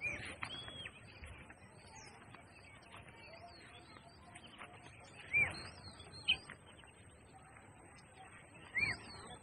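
Small birds chirping: short, sharply arched calls stand out at the start, about five seconds in and near the end, with fainter bird calls in between.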